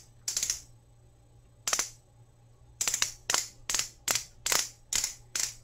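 Clicking of a twist-up lip plumper pen as its base is turned to push product to the tip: two lone clicks, then a run of about three clicks a second. No product has reached the tip yet.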